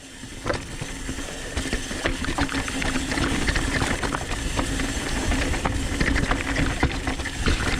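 Rear freewheel hub of a downhill mountain bike on Industry Nine wheels buzzing steadily as the bike coasts down a rough trail, with the frame and chain rattling and knocking over the bumps.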